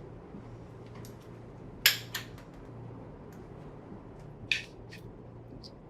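A few sharp, light clinks of small hard objects over a low steady hum. The loudest clink comes about two seconds in, with another just after it and one more near the middle.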